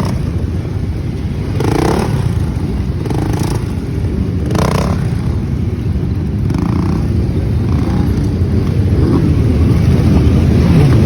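Motorcycles running on a group ride: a steady, loud low rumble of engines mixed with wind noise, with a few short louder swells.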